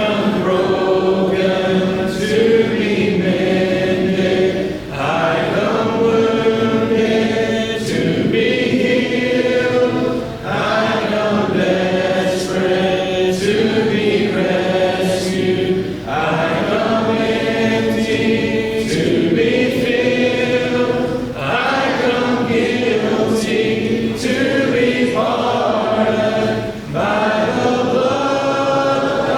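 Congregation singing a hymn a cappella in several voice parts, in long phrases with brief breaks about every five seconds.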